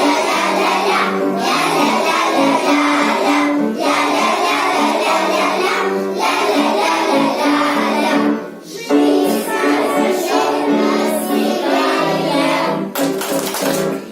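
Children singing a song together over musical accompaniment, in phrases of a few seconds each with a short break about eight seconds in.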